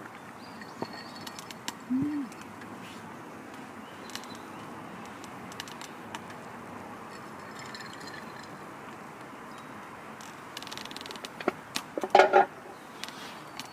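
Birds calling: a single short, low hooting call about two seconds in and faint high chirps, over a steady outdoor background. A few clicks and then a short, louder sound come near the end.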